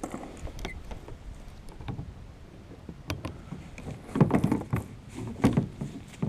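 Knocks, clicks and bumps against a kayak's hull as gear is handled aboard, with two louder clusters of bumps about four and five and a half seconds in.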